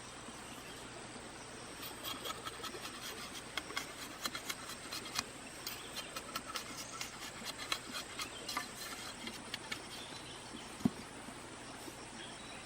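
Steady insect chorus with a high, constant drone. Irregular crackling clicks come for several seconds, then a single sharp knock near the end.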